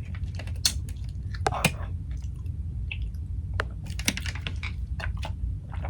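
Close-up chewing and wet mouth clicks from someone eating a poke bowl of rice, shrimp and chicken, over a steady low hum.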